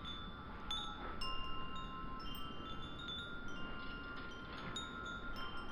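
Wind chimes ringing: irregularly struck metal notes at several different pitches that ring on and overlap.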